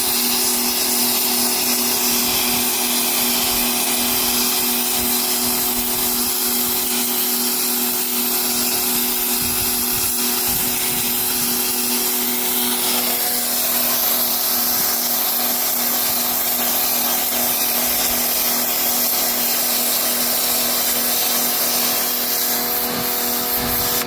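Pressure washer running steadily, its motor hum under the hiss of the water jet spraying into soiled car carpet and seat fabric. The motor's pitch steps up slightly about halfway through, and the machine stops at the very end.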